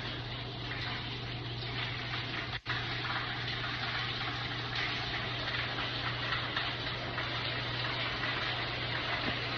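Water spraying steadily while a ductless mini split is washed down, over a steady low hum. The sound drops out for a split second about two and a half seconds in.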